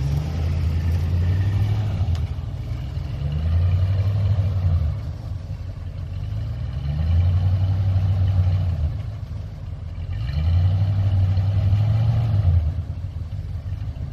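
1979 Lincoln Continental Mark V's V8 revved four times from idle, each rev held for a second or two before dropping back.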